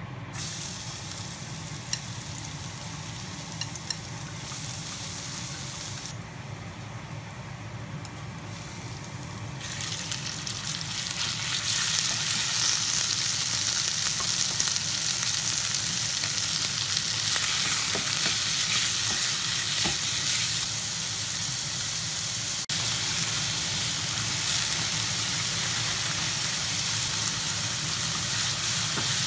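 Pork belly pieces and minced garlic sizzling as they fry in a metal pot on a gas stove, stirred with chopsticks. The sizzle grows louder about ten seconds in.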